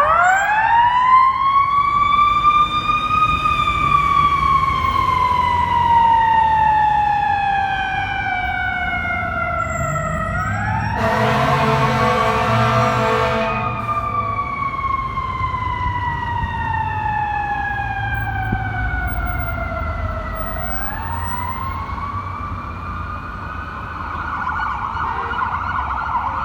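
Fire engine siren starting up, then going in long wail cycles: a quick rise followed by a slow fall, three times over. A blast of the truck's air horn lasts about two and a half seconds, near the middle. A low engine rumble runs underneath.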